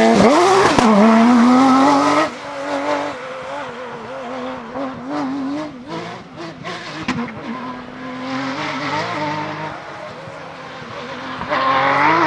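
Porsche GT3 rally car's flat-six engine revving hard, its pitch rising and falling through gear changes. About two seconds in it drops sharply to a quieter, wavering engine note, then turns loud again near the end as it revs up once more.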